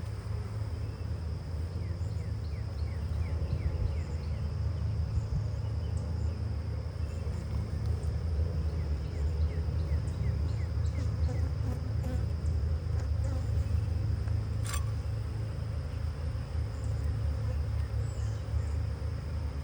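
Honeybees buzzing in a dense, steady hum around an opened hive during an inspection. The colony is stirred up and agitated.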